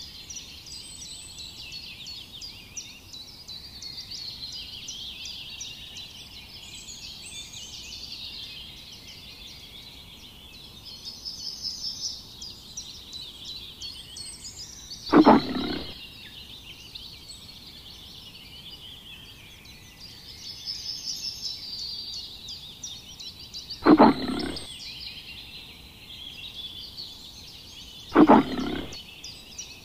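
A lion gives three short, loud grunting calls, about 15, 24 and 28 seconds in, over a steady background of high chirping birds and insects.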